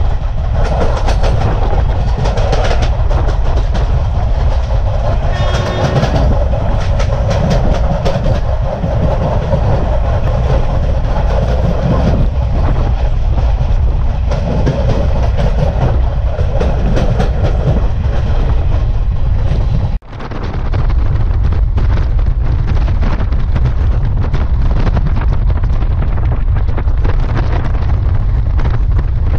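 Passenger coaches of a train on the adjacent track rushing past at speed, heard from the open doorway of a moving train, with wheel clickety-clack and heavy wind on the microphone. About twenty seconds in the sound drops out for a moment. After that only the wind and the rumble of the moving train remain.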